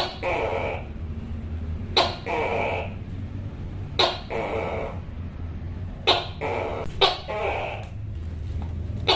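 Tokay gecko calling its two-part "to-kay" call over and over, about every two seconds. Each call is a sharp clipped "to" followed by a longer "kay". A steady low hum runs underneath.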